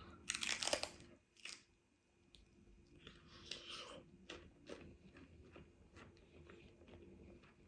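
A person takes a loud crunching bite of crunchy food close to the microphone, then keeps chewing with smaller crunches and faint wet clicks.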